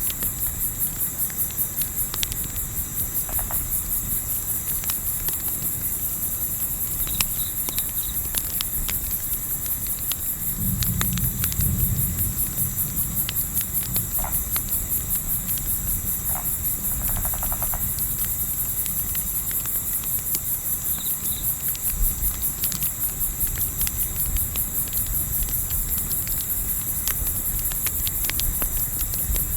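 Steady high-pitched chirring of crickets, with scattered sharp crackles from a campfire and a low rumble of wind that swells for a second or two about eleven seconds in.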